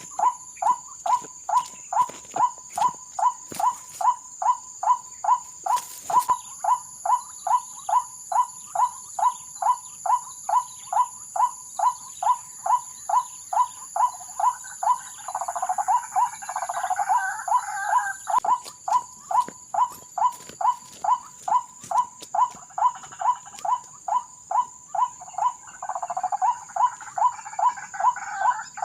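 White-breasted waterhen lure call repeating evenly at about two to three notes a second. Rougher, denser calling joins in twice, around the middle and near the end, while insects trill steadily at a high pitch behind it.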